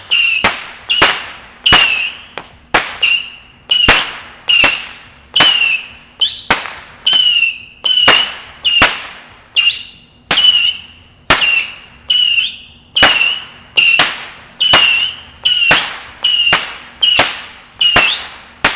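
Whistling fireworks, which the filmer takes for 'Screaming Mimis', firing a rapid steady string of shots. There are about one and a half a second, each a sharp pop followed by a short, falling whistle, and the string stops just before the end.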